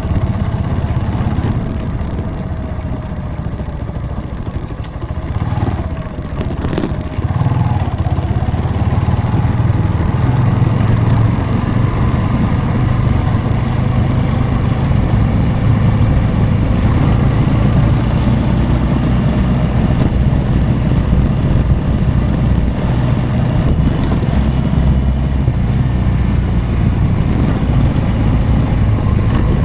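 Motorcycle engine running on the move. It eases off and changes pitch about five to seven seconds in, then holds steady and a little louder.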